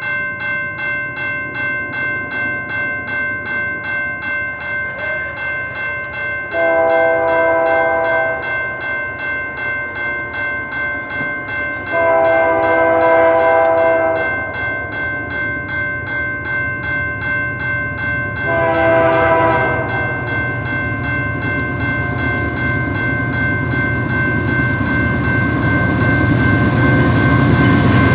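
Level-crossing warning bell ringing about twice a second while an approaching train sounds its chime horn in the crossing pattern: long, long, short, with the final long blast starting at the very end. The rumble of the train builds over the last several seconds.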